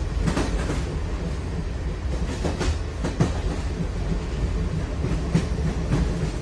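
A steady low rumble with irregular sharp clacks and knocks over it, several of them, unevenly spaced.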